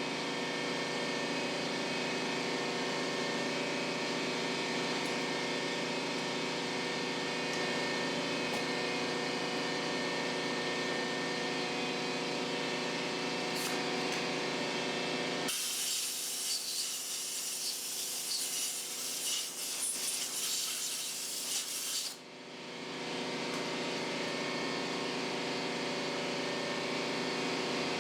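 Steady machine hum made of several even tones. About halfway through it is replaced for some six seconds by a high hissing, rasping noise, and then it resumes.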